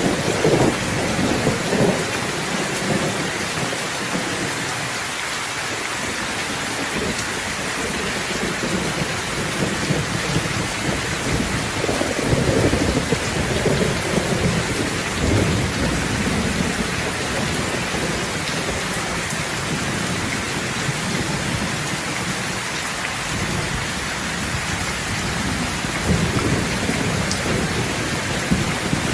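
Steady heavy rain hissing, with rolls of thunder rumbling beneath it near the start, again in the middle and once more near the end.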